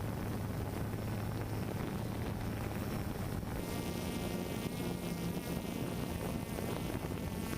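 Multirotor drone's propellers buzzing steadily over a windy hiss, the whine turning more clearly pitched about halfway through.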